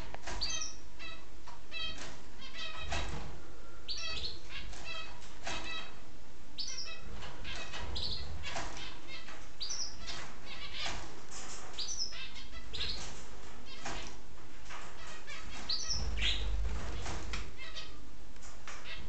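Pet budgerigars chattering throughout, a dense run of short chirps and quick rising whistles, with a few brief low rumbles mixed in.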